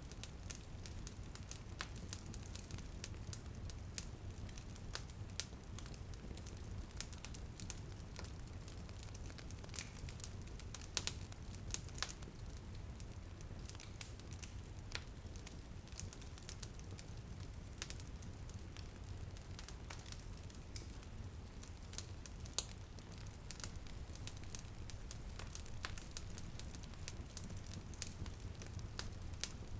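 Wood fire crackling, with irregular sharp pops, a few louder ones, over a steady low rumble of the flames. A faint hiss of light rain may lie underneath.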